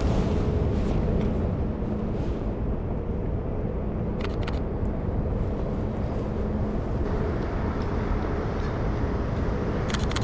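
Steady low rumble of an urban outdoor space, with a low hum through the first part that fades out, and a few sharp clicks about four seconds in and a quick run of clicks near the end.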